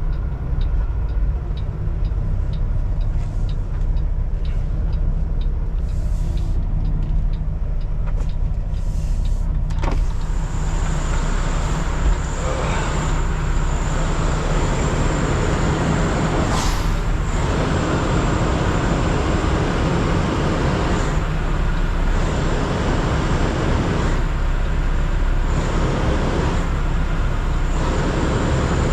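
Semi truck's diesel engine running steadily, heard from inside the cab. Through the first third there is a regular ticking about twice a second; a broad rushing hiss then comes in and stays.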